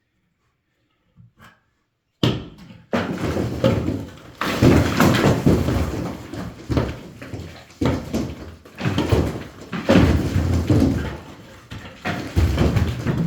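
A brick wall being knocked down by hand: after two faint knocks, loud crashes start about two seconds in and keep coming, with bricks and rubble tumbling and clattering down between the blows.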